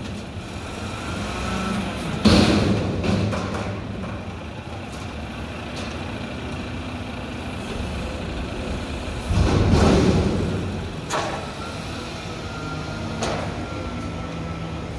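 Mack garbage truck with a McNeilus front-loader body running steadily, with two loud bangs that ring on, about two seconds in and again near ten seconds, and a few lighter knocks after that.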